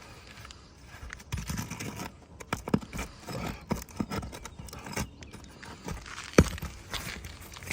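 A metal roof snake being worked under an asphalt 3-tab shingle to get at the fasteners: irregular scraping and clinking, with one sharp knock a little past six seconds in.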